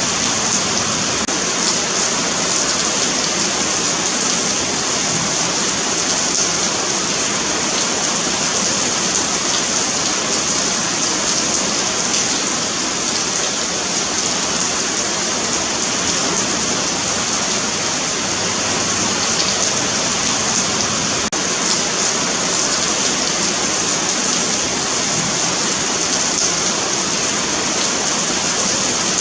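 Steady rain falling on a concrete sidewalk: a constant hiss of drops pattering on the pavement, even in level throughout.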